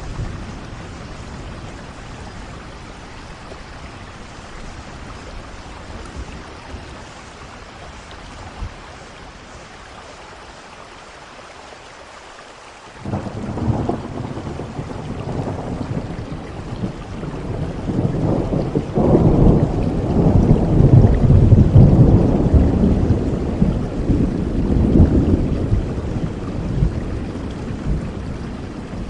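Steady rain falling, then about halfway through a thunderclap breaks in suddenly and rolls on as a long low rumble. The rumble grows louder and eases off near the end.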